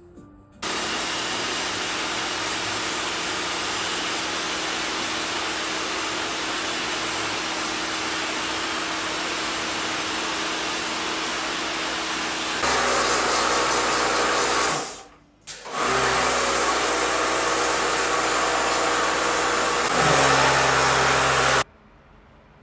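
Electric household appliance running with a steady, loud rushing whir. It starts abruptly, gets louder and fuller about halfway through, cuts out for a moment, picks up again, and stops suddenly near the end.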